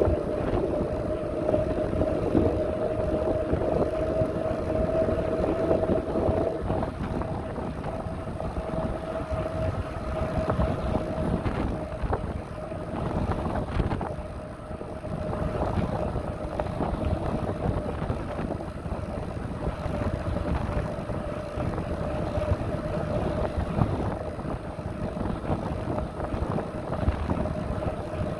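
Riding noise from a moving bicycle: wind on the microphone and rumble from the path, with a steady whine throughout.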